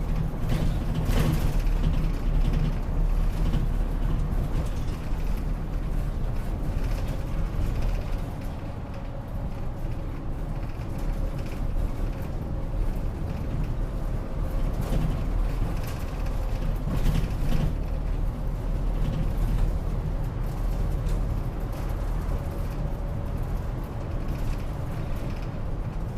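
Inside a route bus under way: the engine running steadily with road noise, loudness swelling and easing gently, and a few short clicks and knocks from the bus body.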